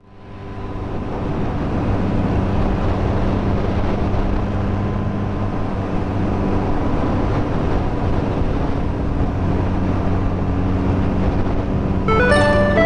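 Steady drone of a Suzuki superbike's inline-four engine held at constant revs, under a broad rushing noise. Music comes in near the end.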